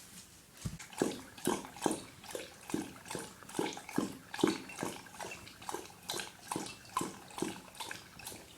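A dog lapping water from a bowl: a steady rhythm of wet laps, about two to three a second, starting about a second in.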